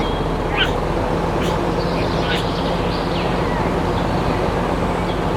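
A motor running steadily with a low hum, while birds chirp now and then.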